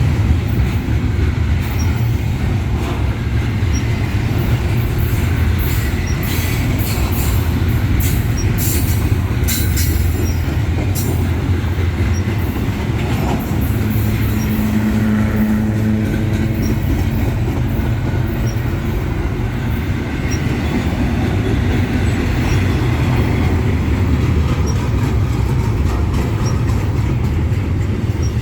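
Freight train rolling past, its railcars making a steady heavy rumble with wheel clatter, and a run of sharp high-pitched wheel squeals and clicks from about six to eleven seconds in.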